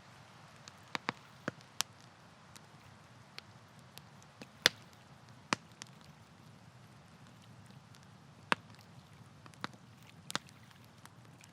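Campfire crackling: burning wood snapping and popping in irregular sharp cracks, the loudest about halfway through, over a faint low steady hiss.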